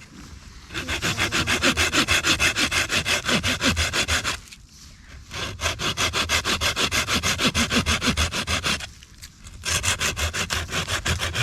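Hand saw cutting through a green wooden stick with quick, even back-and-forth strokes, in three runs with two short pauses between them.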